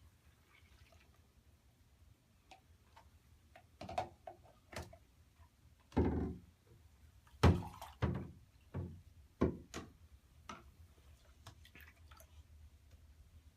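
A series of irregular knocks and thuds, about a dozen, the loudest two about six and seven and a half seconds in.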